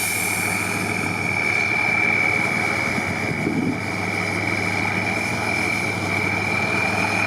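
A heavy engine running steadily, with a constant high-pitched whine over its hum.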